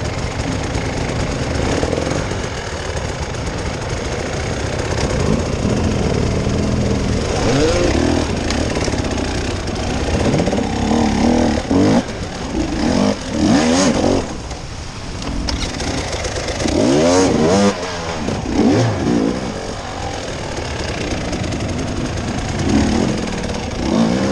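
Off-road vehicle engine running under load, revving up and dropping back several times as it is driven over rough ground.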